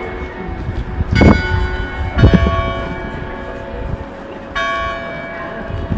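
The Loreta church tower's carillon playing its hourly tune at eleven o'clock. Single bells are struck one after another in a slow melody, a new note every one to two seconds, each one ringing on under the next.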